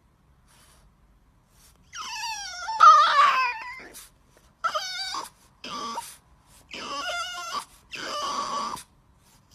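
A pet animal calling: one long call falling in pitch about two seconds in, then four shorter calls in quick succession.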